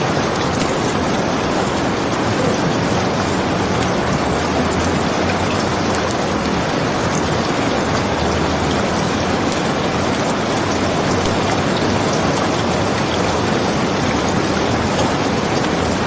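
Steady rain falling: an even, unbroken rushing patter that does not change in level.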